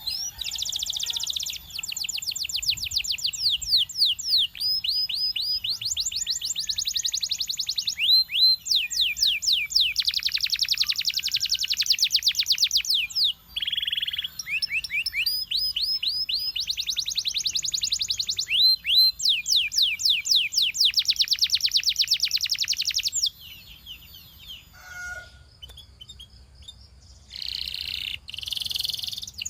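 Canary singing a long song of fast trills, each a rapid run of the same short note repeated, with brief breaks between phrases. It falls quiet about 23 seconds in, and the song starts again near the end.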